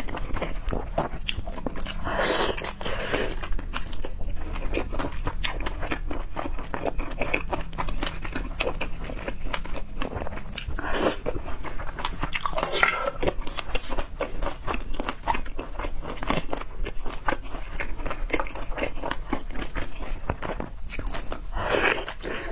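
Close-up eating of seafood: steady, dense crunching and chewing with many small crackling clicks, swelling a few times into louder mouth sounds.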